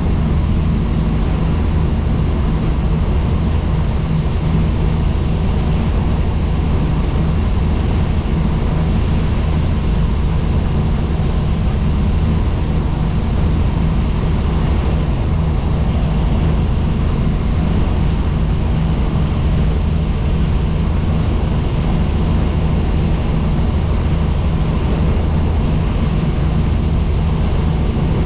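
Helicopter in flight, its engine and rotor making a loud, steady drone with most of its weight in the low range.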